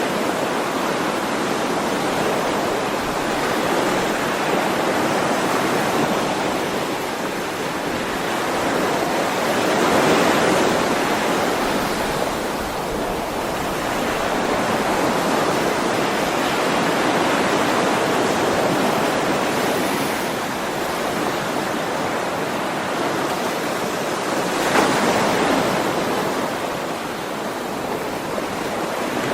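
Ocean waves breaking and washing on a shore in a continuous hiss, swelling and ebbing every few seconds, with a stronger wave about ten seconds in and another near the end.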